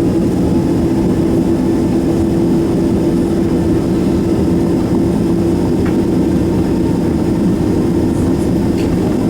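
Boeing 767-300's jet engines running at low taxi power, heard inside the cabin as a steady low drone with a constant hum.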